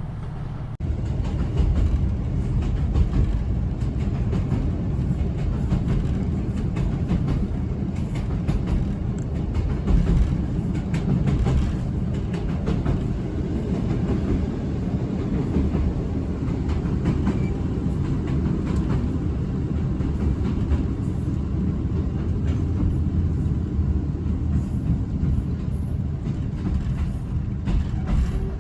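Passenger train running along the line: a steady low rumble with occasional clicks from the wheels over the rail, getting louder about a second in.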